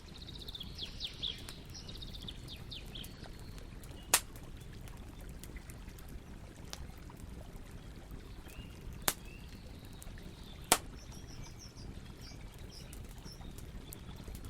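Campfire burning with a steady low rush and three sharp pops or cracks of the wood, about four, nine and eleven seconds in. Birds chirp over it in the first few seconds and again near the end.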